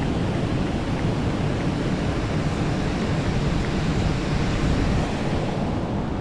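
Steady rush of wind buffeting the microphone together with fast-flowing water.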